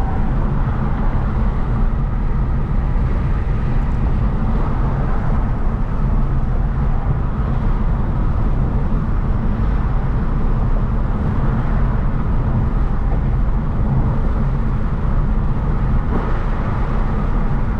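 Hyundai Genesis Coupe 3.8's V6 engine and tyre noise heard from inside the cabin while driving, a steady low rumble with no revving.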